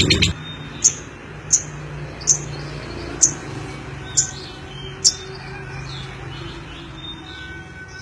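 Lovebird giving six short, sharp, high chirps, each under a second apart, over a faint low hum. A louder passage cuts off just after the start.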